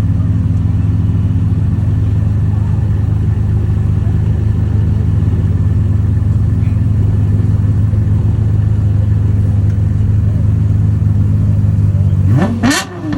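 Supercar engine running at a steady cold-start idle, then blipped near the end: the revs shoot up and drop back twice in quick succession.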